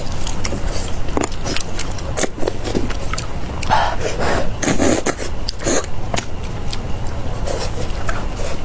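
Close-up eating sounds: biting and chewing meat off the bone, with many quick wet mouth clicks and smacks and a few louder chomps about halfway through.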